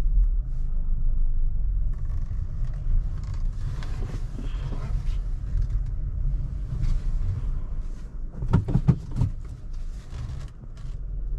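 Honda Elevate's 1.5-litre four-cylinder petrol engine running with a steady low rumble, with a few short louder sounds about eight and a half seconds in.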